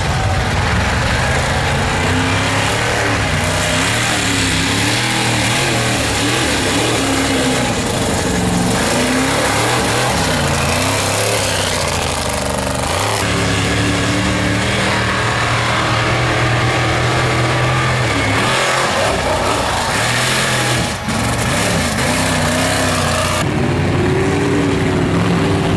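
Mud trucks' engines revving hard through a mud bog pit, the pitch repeatedly rising and falling, with spray and engine noise filling the upper range. Abrupt changes a few times suggest cuts between different runs.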